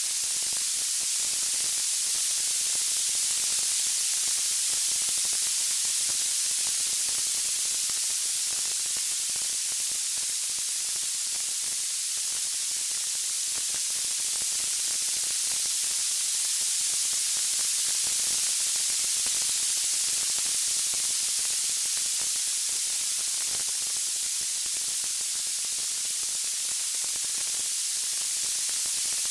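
Steady, high-pitched hiss of white noise, even and unchanging, with no distinct crackles or pops.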